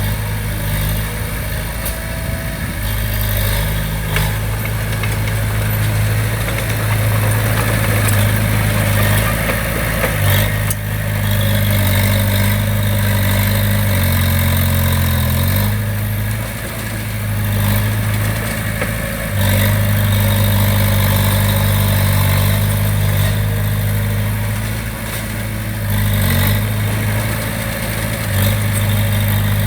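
Heavy construction machine's diesel engine running steadily, its pitch shifting briefly about fourteen seconds in, with a few sharp knocks over the engine noise.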